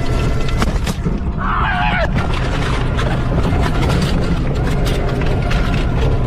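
Vehicle on the move, a steady low engine and road rumble with scattered clicks and knocks.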